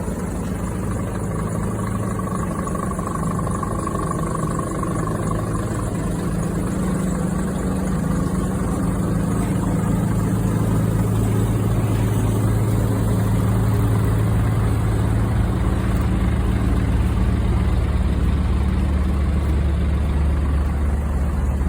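Scania diesel engine running steadily, a low drone whose pitch shifts slowly and which grows a little louder partway through.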